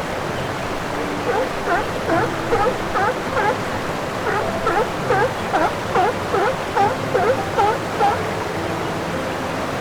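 A quick series of short chirping calls, each dipping and rising in pitch, about two to three a second, over a steady rush of running water. The calls start about a second in and stop near the end.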